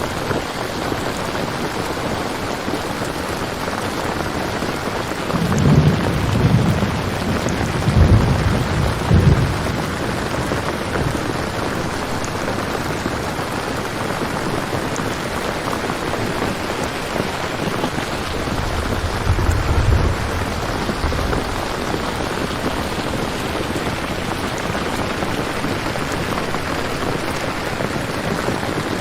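Steady heavy rain with rolls of low thunder rumbling twice, first from about six to nine seconds in, then again around twenty seconds in.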